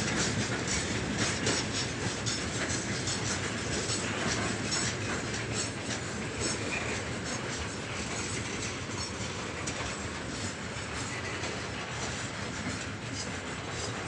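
Freight train of open gondola wagons rolling past close by: a steady rumble and rattle of the wagons, with wheels clacking repeatedly over the rail joints.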